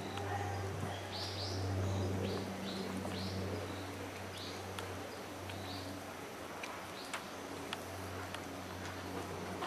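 A small bird chirping a quick run of short calls, each dropping in pitch, over a steady low hum. A few sharp ticks follow near the end.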